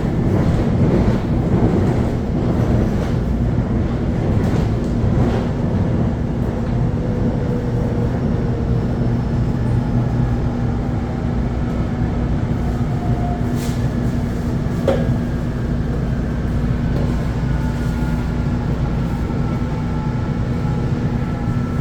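Electric commuter train running on the Seoul Subway Line 4 stretch between Sangnoksu and Oido, heard from inside the carriage: a steady low rumble of wheels on track with a constant hum. Faint motor whines slowly shift in pitch, and a few brief clicks come through.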